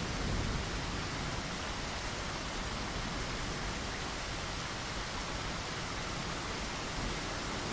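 Steady rain, an even, unbroken hiss, with a low rumble of thunder fading away in the first second.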